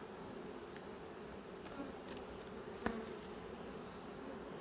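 Honeybees buzzing steadily around an opened, heavily populated hive, with a single sharp click a little before three seconds in.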